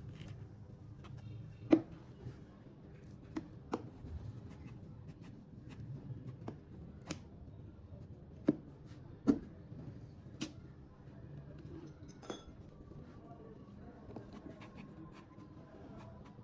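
Irregular clicks and knocks of small hard objects being handled, a few louder taps among them, over a low steady hum.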